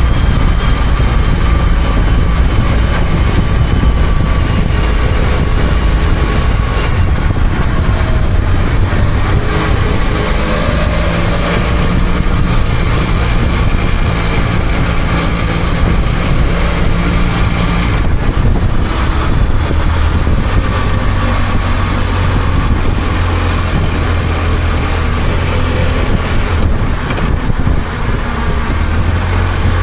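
BMW F800GS parallel-twin engine running under way, with steady road and wind noise. The engine note changes about two-thirds of the way through and settles into a steadier, lower tone.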